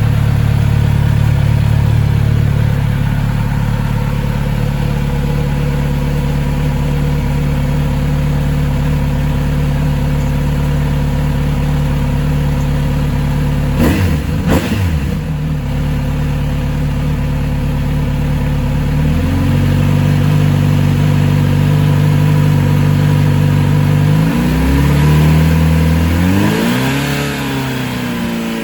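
Kawasaki Z900RS inline-four motorcycle engine idling after its first start in months. Its idle steps down to a lower, steadier speed about two-thirds of the way through. Near the end the throttle is blipped several times, the revs rising and falling, with a short knock about halfway through.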